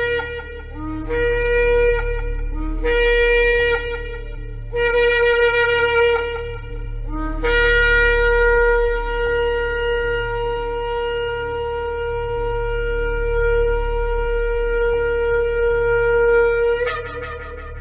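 Shofar (ram's horn) blown: three short blasts about two seconds apart, each scooping up from a lower note into the main note. Then one long held blast of about nine seconds ends in a sharp upward break, over a steady low hum.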